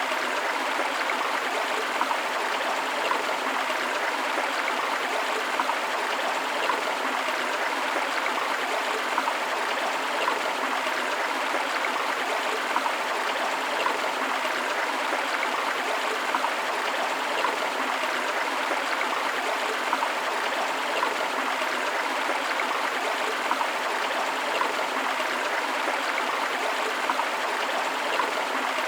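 Flowing water of a river and waterfall, a steady, unbroken rush with many brief little splashes through it.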